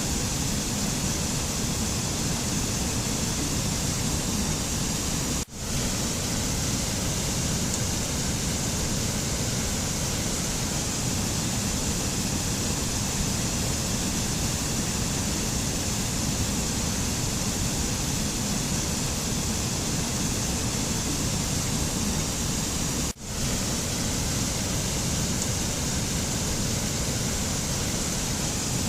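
Steady, even rushing noise of the kind used as mountain ambience, like wind or falling water, with no tones or rhythm. It drops out for a split second twice, about five seconds in and again near the end.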